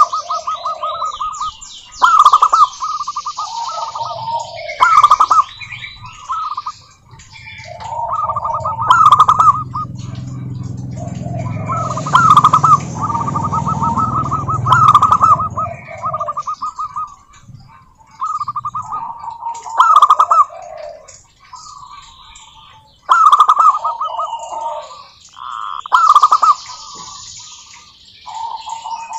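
Zebra doves cooing in short, rapidly pulsed, rattling phrases that repeat about every three seconds. Smaller birds chirp thinly above them, and a low rumble runs under the middle stretch.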